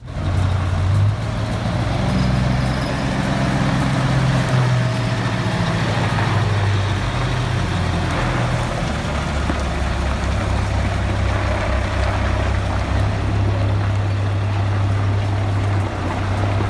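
A heavy vehicle's engine running steadily with a deep hum, its note shifting in the first few seconds and again later on.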